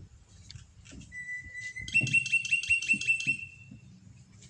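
A bird calling: a held high whistled note, then a quick run of about nine sharp repeated notes, some six or seven a second, that stops about three seconds in.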